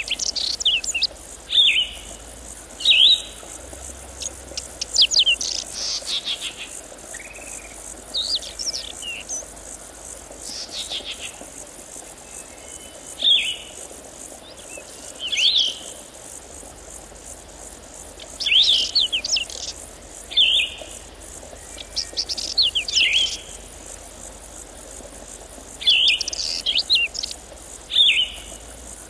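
Birds singing: short, sharp chirps and trills, repeating every second or two, over a faint steady background.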